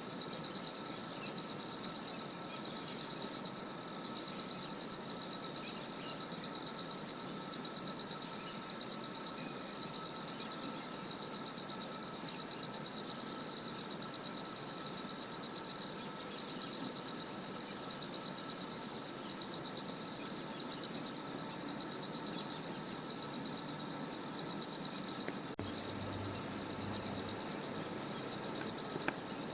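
Chorus of forest insects, crickets, giving a steady, high, fast-pulsing trill. A second, higher pulsed trill joins near the end.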